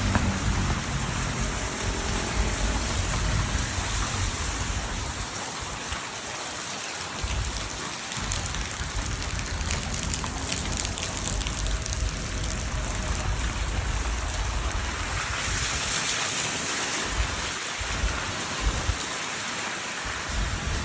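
Rain falling in a steady hiss, with a low rumble underneath that comes and goes.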